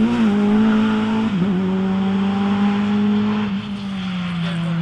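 Rally car engine running at steady high revs, with two brief dips in pitch in the first second and a half, then settling a little lower from about three and a half seconds in.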